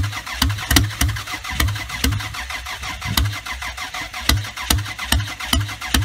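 1993 Toyota Camry engine cranking on its starter in a cold start, turning over in an even chugging rhythm a little over two beats a second without catching. The engine is trying but not firing after a winter outdoors.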